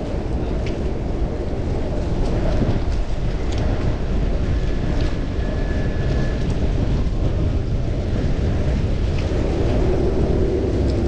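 Wind buffeting the microphone of a chest-mounted action camera on a moving fixed-gear bicycle, a steady low rumble of rushing air mixed with road noise. A faint thin whine comes in for a couple of seconds midway.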